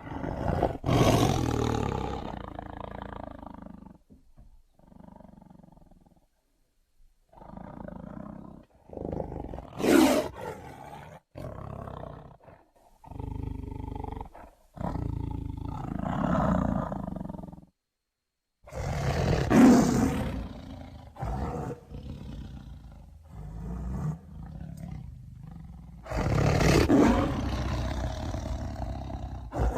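Tiger growling and roaring in repeated bouts with short pauses between them, the loudest roars about ten and twenty seconds in.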